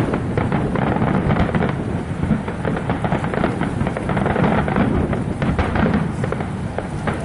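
Fireworks going off in a dense, continuous barrage: a deep rumble of overlapping bangs with many quick cracks through it.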